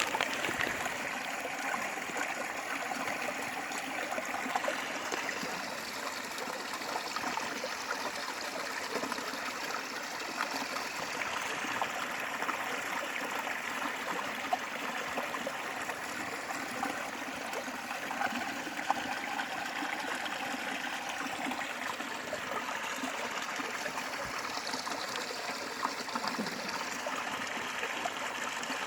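A forest valley stream running and trickling over rocks in a steady wash of water, with a few brief sharper sounds.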